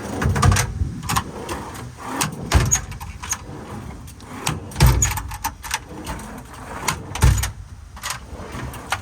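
Metal sliding drawers in a truck's service-body compartment being pulled out and pushed shut, with a clunk about every two and a half seconds and rattles and clicks in between.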